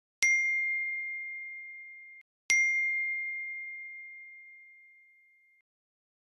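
Two bright bell dings about two and a half seconds apart, each ringing on one clear tone and fading slowly. The first ring is cut off just before the second strike.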